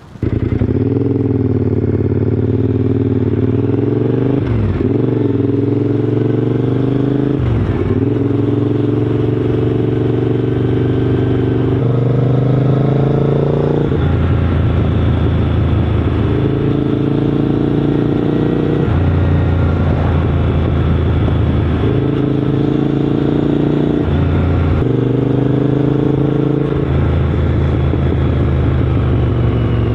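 Triumph Scrambler 900's parallel-twin engine running under way, loud and continuous. Its pitch dips sharply and picks up again twice in the first eight seconds, then steps up and down several times with the throttle.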